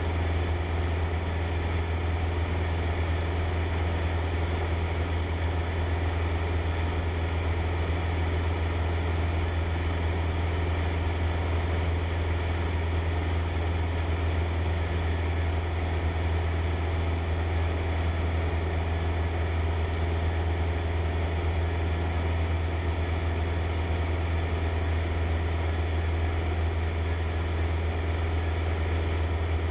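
Cessna 152's four-cylinder Lycoming engine and propeller droning steadily at cruise power, heard from inside the cockpit.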